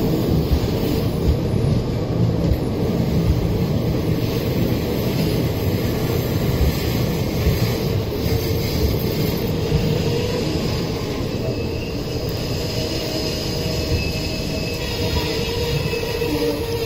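Indian Railways express train running along the track: a steady, loud rumble of the wheels on the rails. A faint high whine joins in during the second half.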